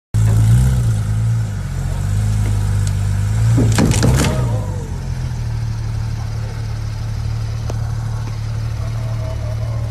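Porsche 911 GT3 RS engine idling steadily. About four seconds in there is a short cluster of knocks with a falling squeal.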